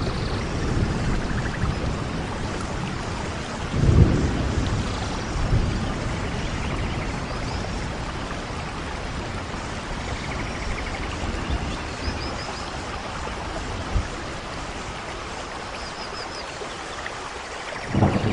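Steady rain falling, with low rolls of thunder swelling about four seconds in and again near the end.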